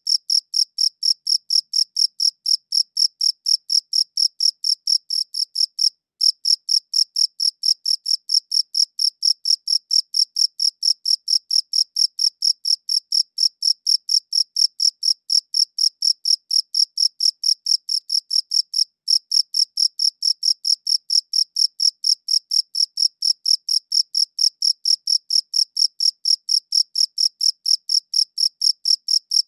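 A cricket chirping in a fast, even rhythm of short, high-pitched pulses, with a brief pause about six seconds in.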